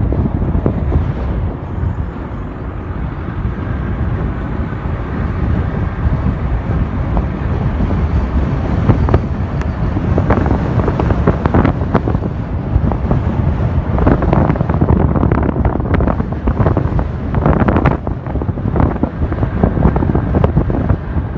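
Wind buffeting the microphone of a moving car, over a steady low road rumble, with irregular gusts.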